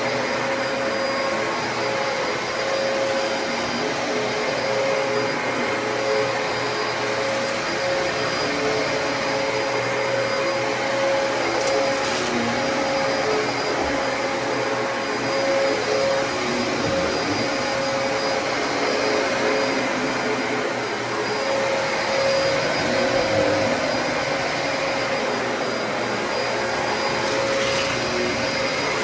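Dyson DC33 upright vacuum cleaner running steadily: an even rushing noise with a motor whine that wavers slightly in pitch.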